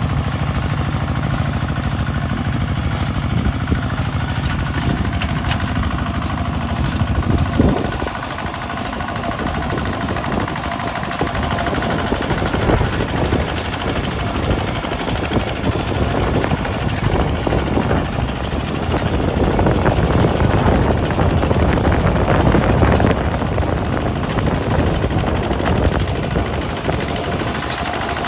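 Kubota RT single-cylinder diesel engine of a walking tractor running under load while plowing, a rapid, even beat of strokes that grows louder past the middle.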